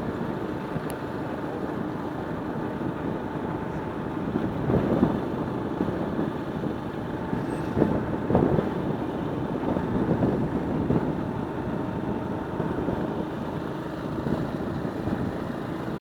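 Motor vehicle running: a steady low rumble with a few louder swells about five, eight and eleven seconds in.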